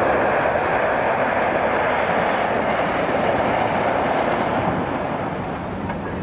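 A train passing, a steady rushing noise that eases off over the last second or two.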